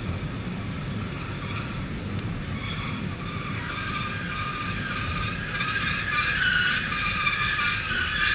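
Passenger train's wheels squealing, metal on metal, over a low rolling rumble as the train comes into the station at low speed. The high squeal grows louder about halfway through.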